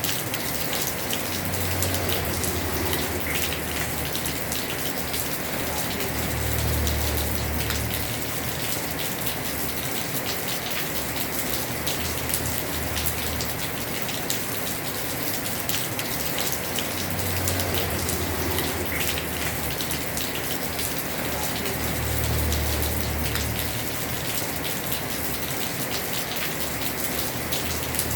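Heavy rain on a house roof: a steady, dense patter of drops, with a low rumble that swells and fades four times.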